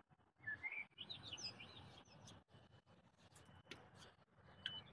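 Near silence with a songbird's faint chirps and short gliding notes between about half a second and a second and a half in. A few soft clicks follow later.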